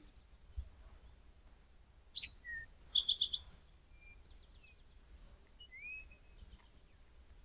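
Wild birds calling: scattered short chirps and gliding whistles, loudest a rapid trill about three seconds in, over a faint low outdoor hum.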